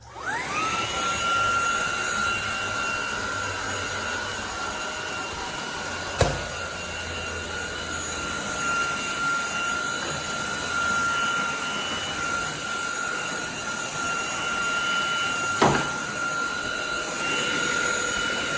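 Cordless stick vacuum's motor starting up, whining up to speed within half a second and then running steadily with a high whine over rushing airflow. There are two sharp knocks partway through, and the motor cuts off suddenly at the end.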